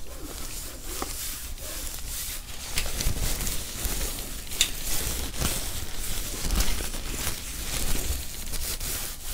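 Soft crinkling with scattered small clicks, the kind of handling sound made for ASMR triggers.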